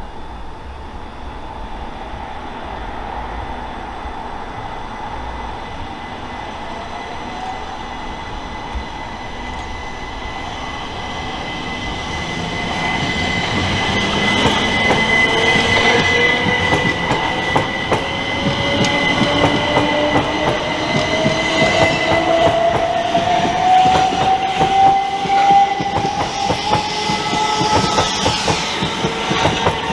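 Electric multiple-unit train running along the platform, growing louder about halfway through, its traction motors giving a whine that rises steadily in pitch as it picks up speed, with the wheels clacking rapidly over rail joints.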